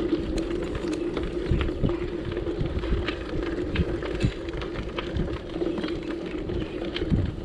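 Touring bicycle on the move: a steady hum with low rumble and scattered light clicks and rattles.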